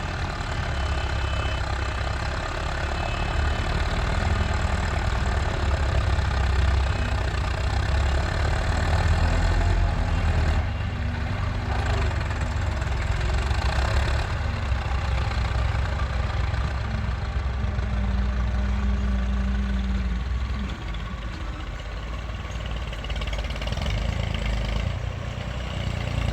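Massey Ferguson 385 tractor's four-cylinder diesel engine running steadily, a low rumble that swells a little and eases off midway.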